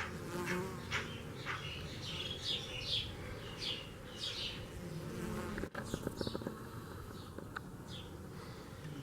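Honey bees buzzing as they work flowers, a low hum that swells and fades as bees fly close to the microphone.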